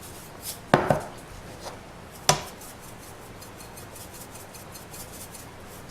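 Two sharp clinks of kitchen utensils against a pot or dishes, about a second and a half apart, the first with a brief ring.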